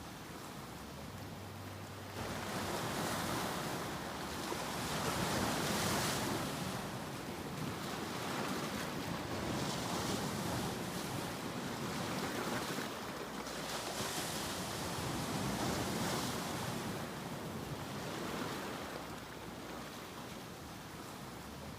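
Ocean surf: waves washing in and out, the rushing noise swelling and easing every few seconds. It steps up suddenly in loudness about two seconds in.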